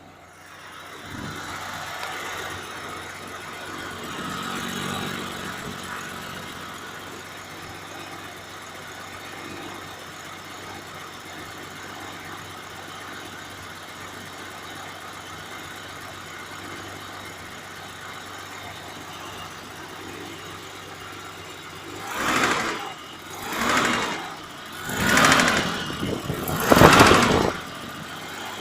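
BMW M20 straight-six engine running at idle with a knock, then revved in four short throttle blips near the end.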